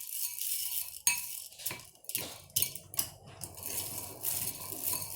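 A spoon stirring popcorn kernels coated in melted butter in a bowl: irregular clinks and scrapes against the bowl.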